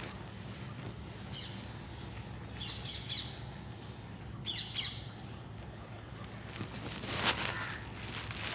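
Sparrows chirping in three short, high clusters, followed near the end by a louder, harsh burst of bird sound.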